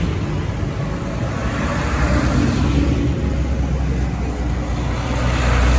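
Tractor engines running in a steady low drone, growing a little louder near the end.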